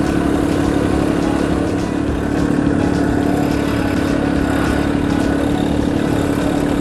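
Kubota LX2610 compact tractor's three-cylinder diesel engine running at a steady, constant pitch while the tractor is driven carrying a load on its pallet forks.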